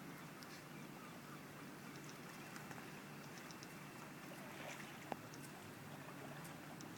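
Faint, steady water noise around a canoe on a river, with small drips and ticks and a single light knock about five seconds in.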